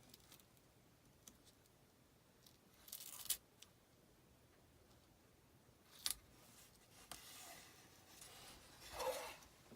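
Faint craft-table handling sounds: a few light clicks and short scrapes, with a longer soft scraping or rustle near the end, as stencil and chalk-paste materials are worked.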